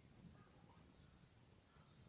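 Faint crackling of a wood bonfire: a couple of small, soft pops about half a second in, over near silence.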